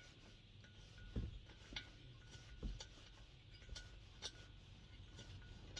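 Faint, irregular clicks and light metallic clinks of a tool and small screws being handled while a diesel heater is taken apart.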